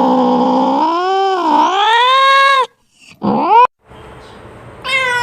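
Domestic cat yowling: one long, wavering, drawn-out call that breaks off about two and a half seconds in, then a short rising meow, and another meow starting near the end.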